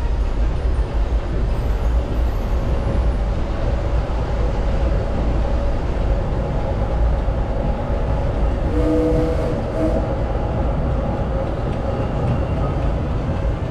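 Steam-powered Disneyland Railroad train running along the track, heard from aboard as a steady low rumble of the cars on the rails. A brief pitched tone sounds twice about nine seconds in.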